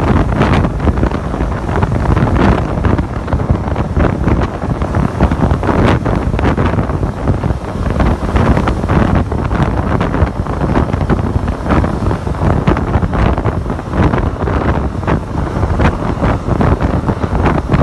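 Wind buffeting the microphone on a moving motorcycle: a loud, uneven rushing noise, heaviest in the low end, with constant gusty swells and dips.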